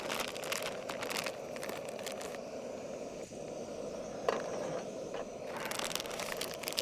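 Plastic food packaging of an instant udon noodle pack crinkling and rustling as it is handled and opened, in bursts at the start and again near the end, over a steady low hiss.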